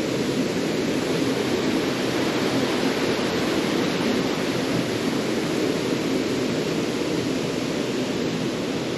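Steady rushing of a mountain stream flowing below, an even noise that does not change.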